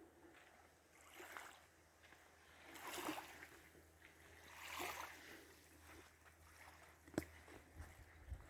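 Faint water sounds: soft splashes or swishes about every two seconds, with a single small click late on.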